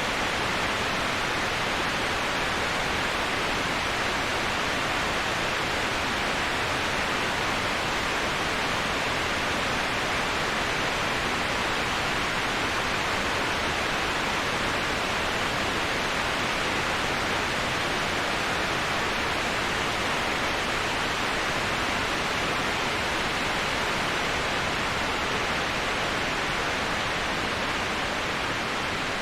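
Waterfall white noise: a steady, even rushing hiss of falling water with no separate splashes. It eases off slightly near the end.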